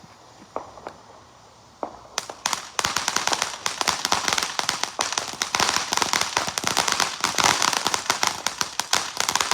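Fireworks crackling: after a few scattered clicks, a dense, rapid stream of sharp small pops starts about two seconds in and keeps going.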